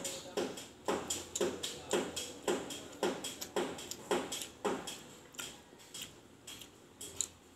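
Repeated hammer blows from nearby construction work: steady knocks about two a second, each ringing briefly. They fade after about five seconds into fainter, scattered knocks.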